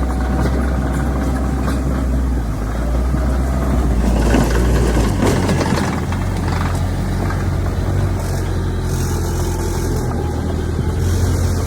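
Heavy diesel engine of earthmoving machinery running, its pitch shifting up a step about midway, with a louder stretch of rough noise a few seconds in.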